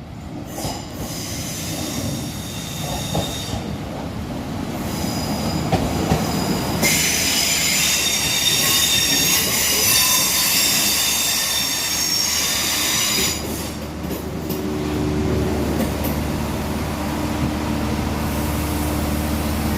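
Northern Ireland Railways Class 3000 diesel multiple unit pulling into the platform, with high-pitched squealing as it brakes, loudest in the middle. It then stands with its diesel engines running at a steady low hum.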